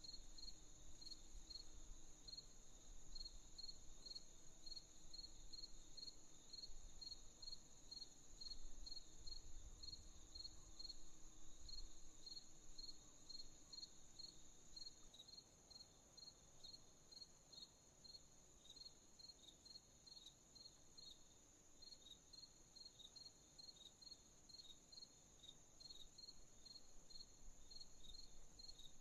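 Crickets chirping at night, faint: a steady high trill with a regular chirp over it, about two to three chirps a second. A faint low rumble fades out about halfway through.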